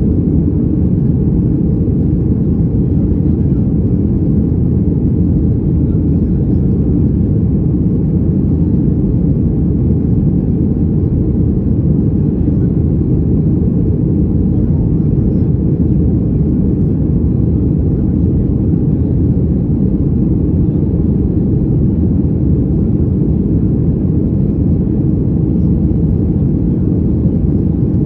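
Boeing 737 jet engines and airflow heard from inside the passenger cabin: a loud, steady low rumble that does not change.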